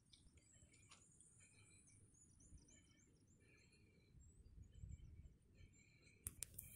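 Faint birdsong: scattered short chirps over a quiet, low background, with a few sharp clicks near the end.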